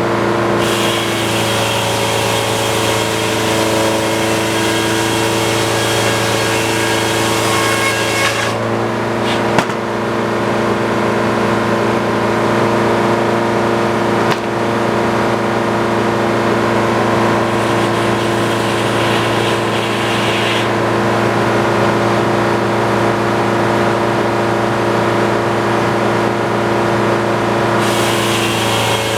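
Antique circular sawmill running steadily, its big blade cutting through a log with a loud hissing cut. The cutting noise drops out twice, briefly about a third of the way in and for a longer stretch after about two-thirds, leaving the steady drone of the power unit, then comes back near the end. There are a couple of sharp knocks.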